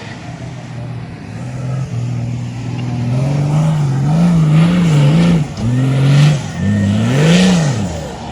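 Off-road 4x4's engine revving up and down repeatedly under load, its pitch wavering in quick blips, dropping sharply about five and a half seconds in, then climbing and falling again near the end.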